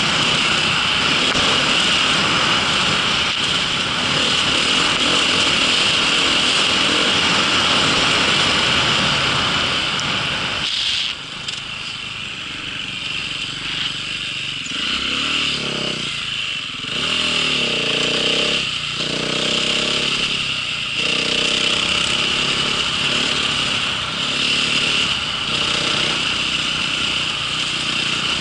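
Small engine of an off-road vehicle running under way, steady at speed; about eleven seconds in it drops back, then the revs rise and fall at lower speed.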